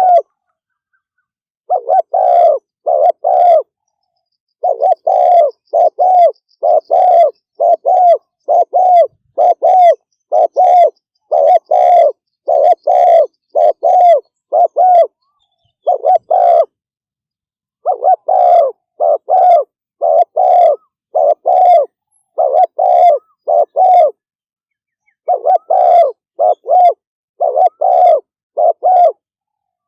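Spotted dove giving a fast run of repeated coos, the rapid 'thúc gù' call used as a lure to excite decoy and wild birds. Short coos come about two a second in runs, broken by brief silences.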